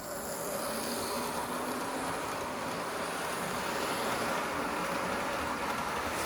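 Lima H0-scale model E646 electric locomotive running along the track, a steady whirring of its small electric motor and gears mixed with the rattle of the model's wheels on the rails.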